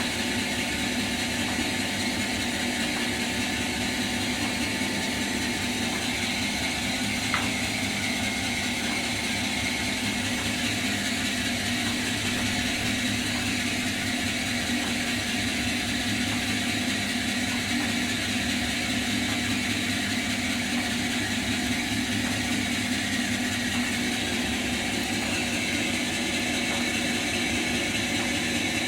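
Caorle TS 125 M brake lathe running steadily, with a short click about seven seconds in.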